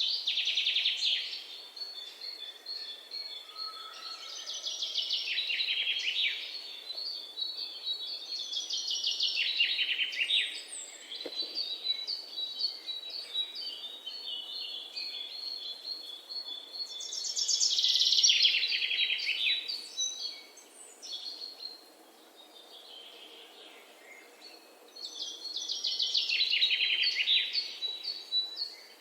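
Songbirds singing in a spring forest: loud, rapid trilled phrases about two seconds long recur every few seconds. Between them run softer high chirps and a thin steady high note.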